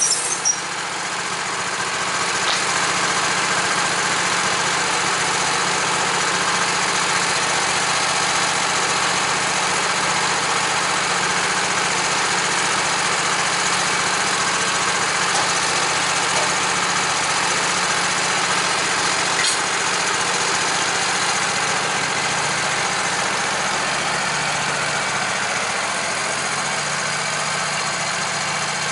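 Sawmill engine running steadily at idle. A high sawing hiss from the blade in wood stops right at the start, just after the cut ends.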